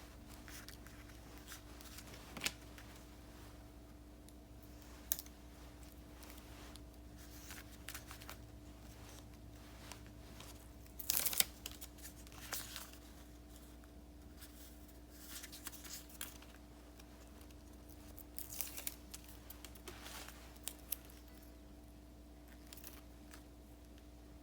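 Paper stickers being peeled from their backing sheet and handled, in scattered short crackles and rips, the loudest cluster about eleven seconds in.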